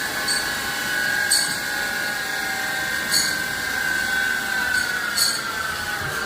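CNC machine running with a steady high whine that sags slightly in pitch in the second half, with a handful of short sharp clicks on top.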